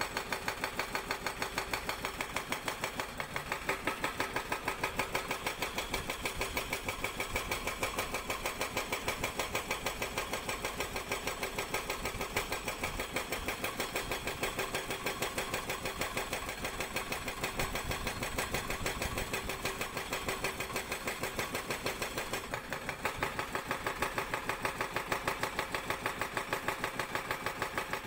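Sangdo SD220 hydraulic breaker on a Cat 320D excavator hammering rock: a rapid, steady train of blows, several a second, over the excavator's running engine.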